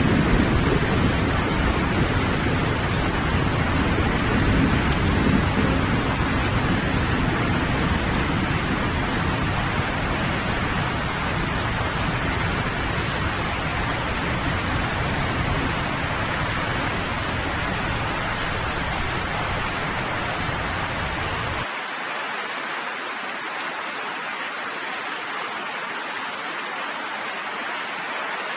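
Steady rainfall with a low rolling thunder rumble that fades through the first half. A little over two-thirds of the way in the rumble cuts off suddenly, leaving only the hiss of the rain.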